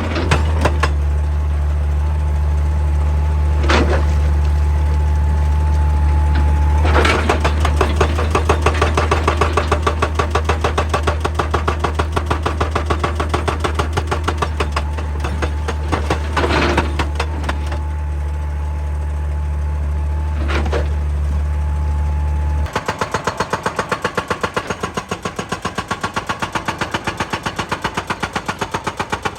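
Excavator engine running with a steady low drone while a hydraulic breaker hammer pounds rock in rapid, even blows. After an abrupt change near the end, a slower regular pounding of about two to three beats a second.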